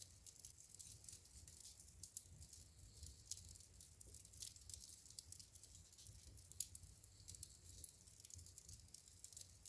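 Faint wood fire crackling in a fireplace: a steady stream of small, irregular high snaps and ticks, with a few sharper pops, over a low steady rumble.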